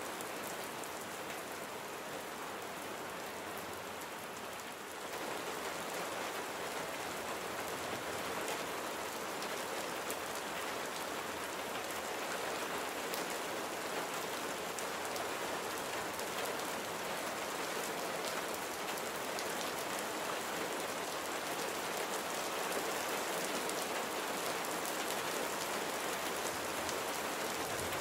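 Steady rain falling, with many individual drops ticking. The rain grows a little louder about five seconds in.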